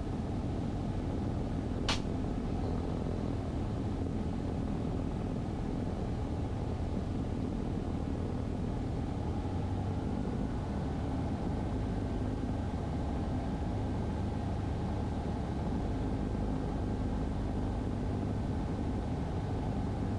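Cessna 150's four-cylinder Continental O-200 engine and propeller droning steadily in the cabin at reduced power on final approach. There is a single sharp click about two seconds in, and a faint high tone steps up slightly about halfway through.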